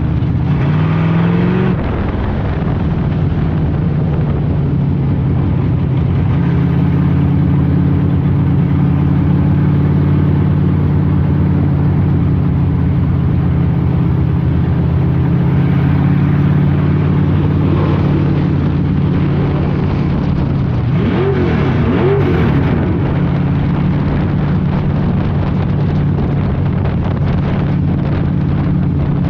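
Street stock race car engines running hard at racing speed, a steady loud drone with short dips and swells in pitch about a second in and again around 21 to 22 seconds in as the throttle comes off and back on.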